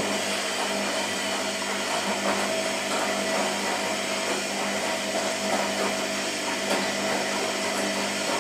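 Washing machine running: a steady motor whir with a hum that holds one pitch.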